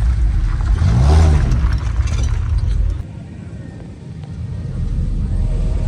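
Low vehicle engine rumble with a brief rev, rising and falling in pitch, about a second in; the rumble dies down for a second or so around three seconds in, then returns.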